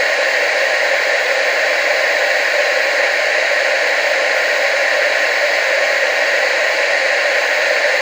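TV static: a steady, unchanging hiss with its weight in the middle and upper range and almost no low end.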